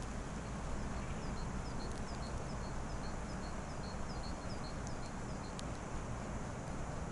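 A small bird calling a long, even series of short high chirps, about three a second, over a steady low rumble of wind on the microphone.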